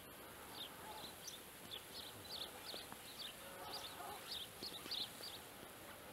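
Small birds chirping in quick, faint, irregular calls, several a second, over a light steady hiss.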